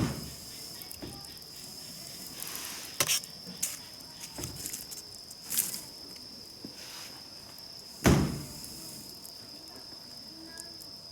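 Crickets chirring steadily in a high, even tone, with a few sharp knocks or cracks over it, the loudest one near the end.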